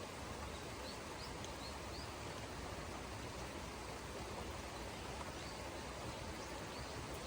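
Steady rain falling, an even hiss with no let-up. A few faint, short high chirps come through about one to two seconds in and again near the end.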